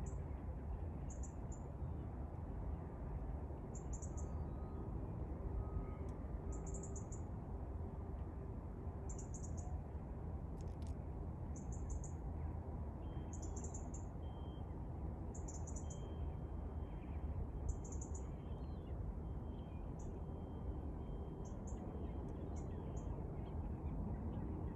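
A small bird repeats a short, high chirp every two seconds or so over a steady low outdoor rumble. The chirps thin out near the end.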